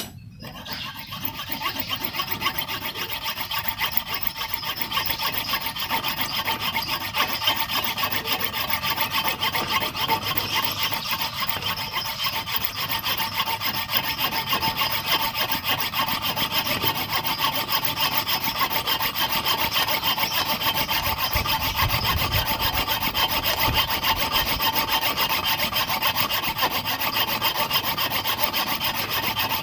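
Mini saw cutting through wood: a continuous rasping, the blade running steadily in the cut, starting about half a second in.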